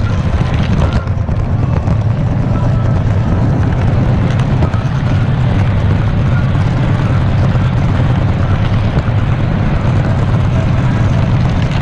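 Steady low rumble of a train running along the track.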